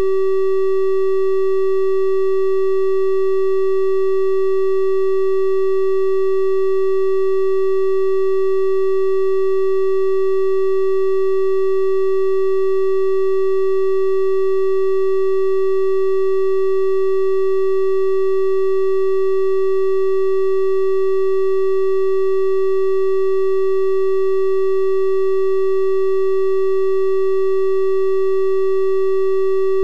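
Synthesized 384 Hz triangle-wave tone, held steady at one pitch and level, with faint higher overtones.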